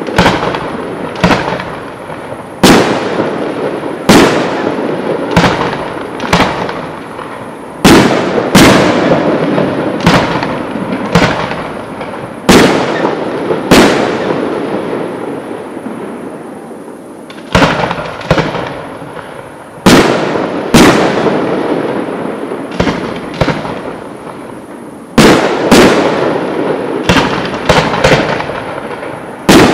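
Aerial firework shells bursting: sharp bangs every one to two seconds, each trailing off in a long rolling echo, with a lull of a few seconds about midway and again later on.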